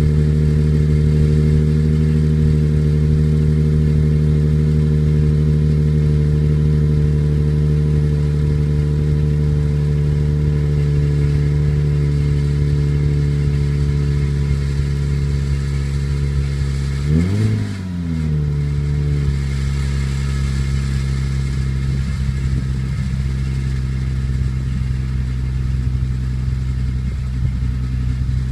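Nissan Maxima 3.0 VQ30DE-K V6 running at a steady, deep cold-start idle through an aftermarket intake and exhaust with a big resonator. The engine is revved once about two-thirds of the way through, a quick rise and fall, then settles back to idle. A worn pulley is making noise that the owner says needs replacing.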